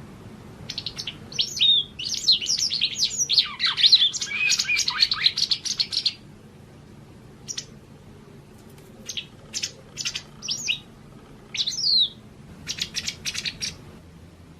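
Japanese wagtail singing: a dense run of high, rapid chirps and sliding twitters for about five seconds, then shorter bursts of chirps with pauses between them.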